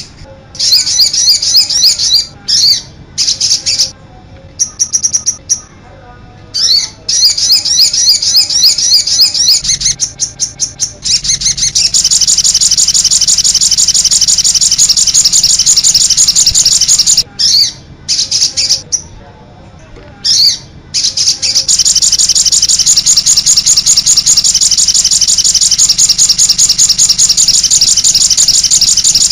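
Songbird song: rapid high-pitched chirps and trills in broken phrases, then long unbroken trilling from about twelve seconds in and again from about twenty-two seconds in. This is the kind of varied combination song used as a masteran to tutor caged songbirds.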